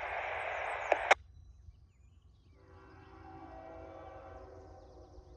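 Scanner radio hiss that cuts off with a click about a second in, then a faint, steady multi-tone chord from CN 3962's Nathan K5HL five-chime locomotive horn sounding in the distance as the train approaches.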